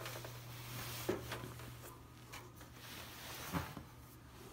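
A few faint knocks and rustles over a steady low hum, the clearest knocks about a second in and near three and a half seconds in.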